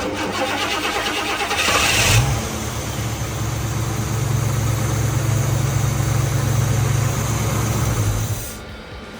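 Warm 472 Cadillac V8 cranked on the starter, catching about two seconds in, then idling steadily before it stops near the end.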